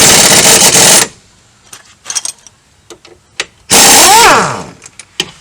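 Pneumatic impact wrench hammering on the lower strut bolts, very loud, cutting off about a second in. A few light metallic clicks and taps follow, then near the end another short burst from the wrench whose whine falls in pitch as it winds down.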